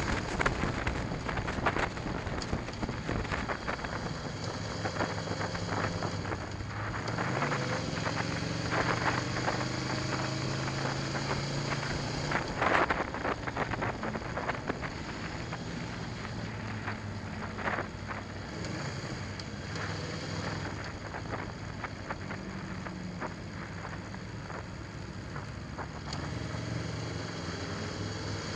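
Aprilia Tuono V4 1100 Factory's V4 engine running at fairly low, steady revs, with a few rising revs, under wind noise on the microphone.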